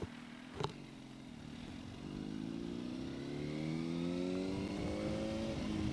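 Yamaha R1 sport bike's inline-four engine pulling away, its pitch rising steadily for about four seconds as it accelerates and then easing off near the end, after a brief click under a second in.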